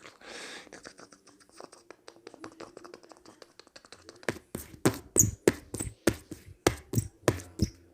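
A patter of faint light clicks, then from about halfway a run of about a dozen sharp knocks or taps at roughly three a second.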